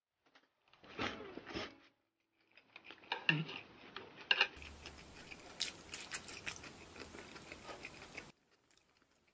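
A person chewing a mouthful of fried griddle potato slices with green pepper: a short run of bites about a second in, then steady chewing with irregular crunches and mouth clicks that cuts off abruptly near the end.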